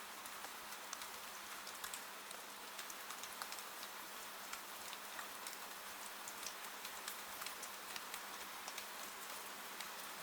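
Steady rain falling, mixed with the small, irregular crackles of a wood fire burning in a fireplace.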